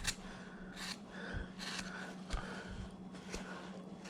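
Hand carving gouge paring into a wood carving blank, a series of short cutting strokes about one every half second to a second, over a steady low hum.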